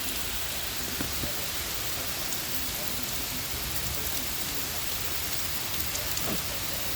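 Heavy rain pouring down: a steady, even hiss with a few faint drop ticks.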